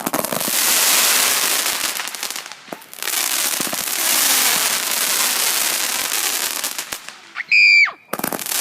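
A 100-shot firework cake firing, its shots and bursts running together in a dense continuous barrage, with short lulls about three seconds in and near the end. Just before the end there is a brief high-pitched whistle, the loudest moment.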